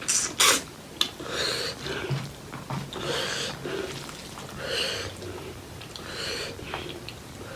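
Close-miked eating of pork leg curry with rice: wet chewing and mouth clicks, with a loud breath through the nose about every second and a half.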